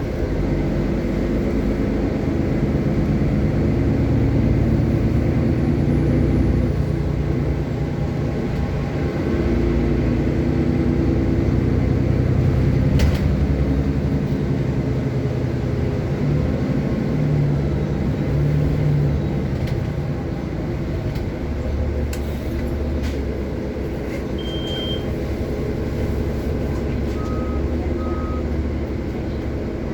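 City bus driving, heard from inside: a steady engine drone with road noise, with a few short high beeps near the end.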